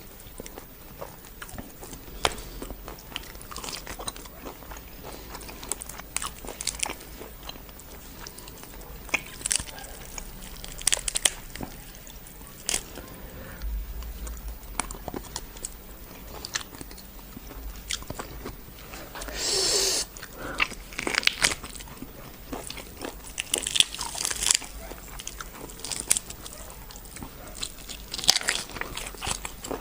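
Close-miked eating of spicy karahi: chewing and biting, with many irregular wet clicks and smacks of the mouth. One longer noisy sound about two-thirds of the way through stands out.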